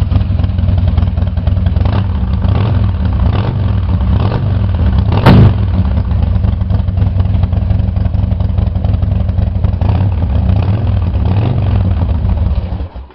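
2003 Harley-Davidson Dyna Wide Glide's Twin Cam V-twin idling on choke after a cold start, with a single sharp crack about five seconds in. The engine is shut off near the end.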